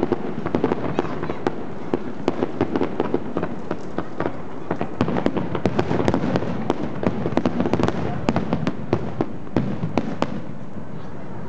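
Fireworks going off in a dense barrage of bangs and crackles, several sharp cracks a second, thinning out in the last second or so.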